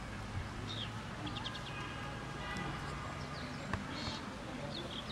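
Small birds chirping in short repeated bursts over faint chatter of people.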